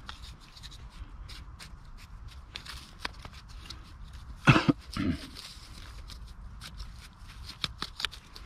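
A dog barks twice, about half a second apart, over scattered light clicks and rustles.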